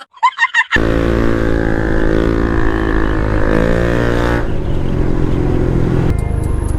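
Honda PCX scooter's single-cylinder engine running at a steady pitch, starting abruptly about a second in, with a brief dip in pitch midway.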